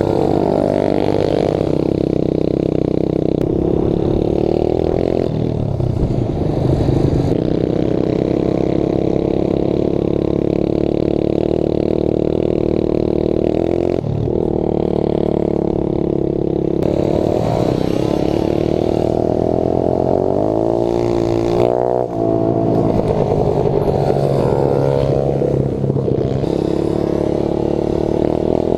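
Dirt bike engine running under throttle for the whole stretch, its pitch rising and falling as it is ridden, with a brief dip and wavering in pitch about three quarters of the way through.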